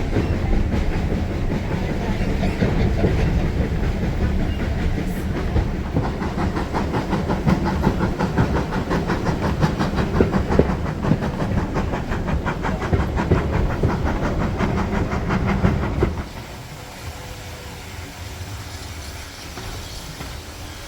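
Steam-hauled railway carriage running along the line: a loud, steady rumble with a fast, even clatter of wheels on track. About three quarters of the way through the noise drops sharply and runs on much quieter.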